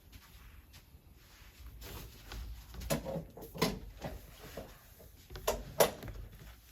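Faint shuffling and rustling with scattered knocks and clicks as people sit back down, the loudest few thumps about three seconds in and again near the end.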